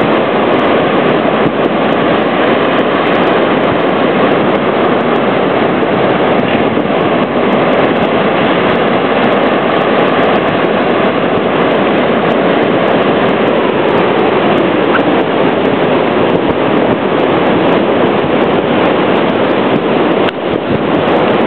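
Steady, loud rushing noise with no distinct events or rhythm.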